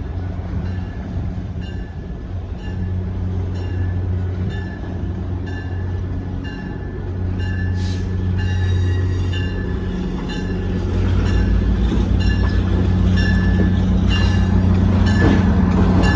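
Train going by on the rails: a steady low engine rumble that grows louder, with a short ringing strike repeating about twice a second.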